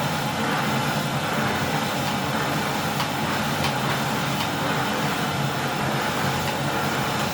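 Early-1970s Goblin 455 vacuum cleaner running steadily with a low hum, its basic floor tool juddering over a thick rug, with faint irregular clicks.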